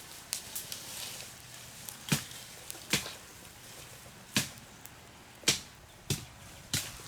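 A tool striking wood or bamboo in sharp chopping blows at uneven intervals, roughly one a second, after a few lighter taps at the start.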